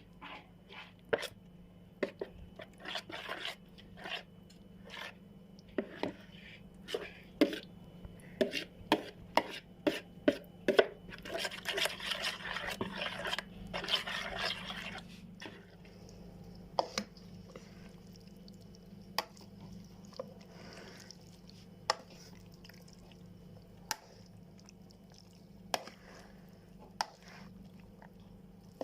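Kitchen food-preparation sounds: a quick run of sharp knocks and clicks of a utensil for the first ten seconds or so, a few seconds of scraping and rustling in the middle, then only an occasional knock.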